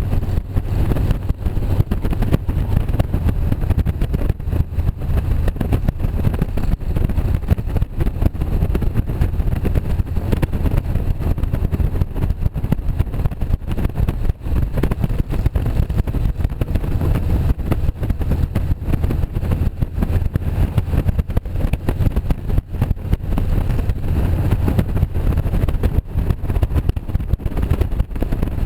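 Motorcycle running steadily at riding speed, with a rough, continuous engine and road rush heavy in the low end.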